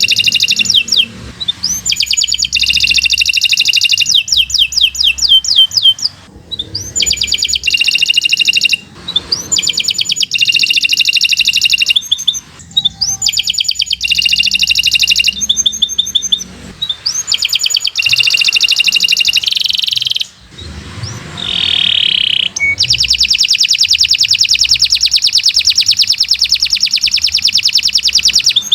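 Domestic canary singing long song phrases of rapid trills and repeated chirps, broken by brief pauses. It ends in a long, fast, even trill.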